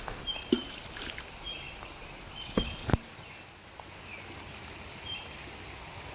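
Rocks plunking into shallow creek water: a sharp knock about half a second in, then two louder ones in quick succession near the three-second mark.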